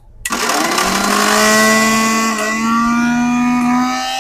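NUTAN Jumix 750-watt mixer grinder with a jar fitted, switched on about a quarter second in. Its motor whine sweeps quickly up in pitch as it spins up to speed, then runs loud and steady.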